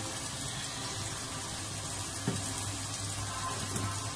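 Minced chicken cooking in its own juices in a stainless steel pot, a steady sizzle with one light knock a little after two seconds in.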